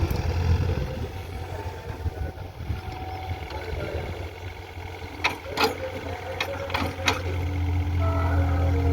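JCB digging machine's diesel engine running, with a quick series of sharp metallic clanks about halfway through. The engine grows louder near the end.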